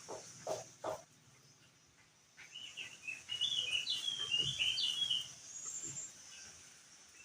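Crested white-eye (opior jambul) singing a quick, jumpy run of high chirping notes for about three seconds, starting a little over two seconds in. It sings over a steady high hiss, and a few soft knocks come in the first second.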